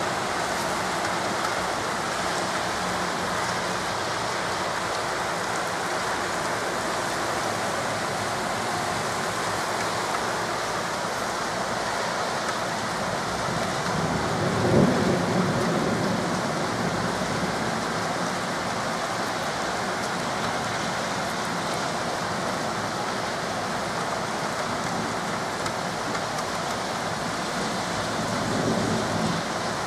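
Heavy rain pouring steadily, a dense even hiss of rain falling on the street and on surfaces. About halfway through, a low rumble swells and fades over a couple of seconds.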